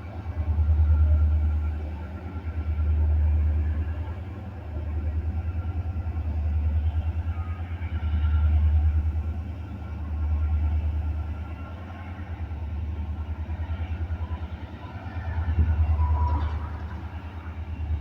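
Vintage EMD diesel locomotives running, a deep engine rumble that swells and fades about every two seconds.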